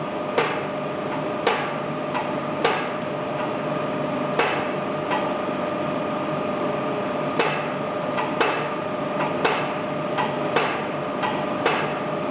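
Sharp metallic clicks and knocks at an uneven pace, roughly one a second, from hand work on a diesel injector in a test stand while its opening pressure is being set. They sit over a steady workshop hum with a constant tone.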